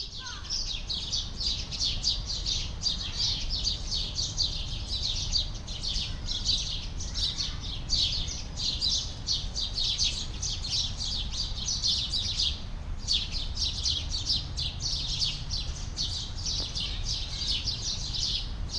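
Many small birds chirping rapidly all at once in a dense, continuous chorus of high chirps, with a brief lull about two-thirds of the way through, over a low steady rumble.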